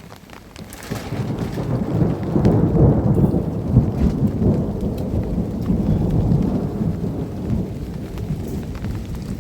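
Thunder rolling in a long low rumble over rain, building up about a second in and staying heavy to the end.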